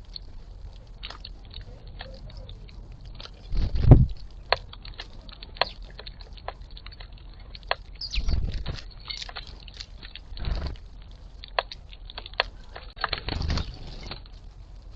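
Seed being pecked and cracked at a bird feeder close to the microphone: irregular sharp taps and crunches, with four louder low bumps.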